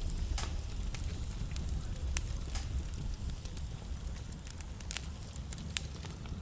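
Wood fire burning in a fireplace, crackling steadily over a low rumble, with a few louder pops from the burning logs.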